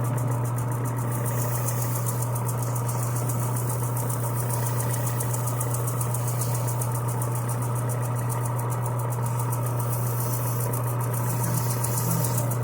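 Electric power sander running steadily with a strong low hum, sanding a pedal-car handle down so it will take paint.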